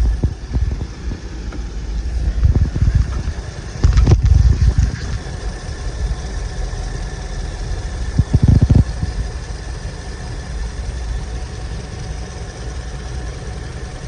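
2007 Dodge Ram 1500's engine idling with a steady low rumble, broken by a few loud low thumps about two and a half, four and eight and a half seconds in.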